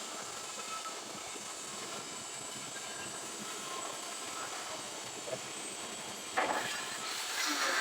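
Stick-welding (SMAW) arc on carbon steel pipe, a steady crackling hiss as the electrode burns, getting louder about six and a half seconds in.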